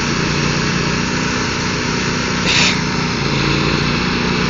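Riding lawn mower engines running steadily, their pitch shifting slightly partway through, with a short hiss about two and a half seconds in.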